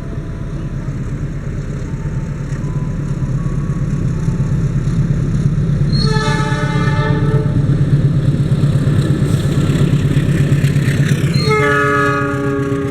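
Diesel train's multi-tone air horn sounding two blasts about five seconds apart, over the steady rumble of the train growing louder as it approaches.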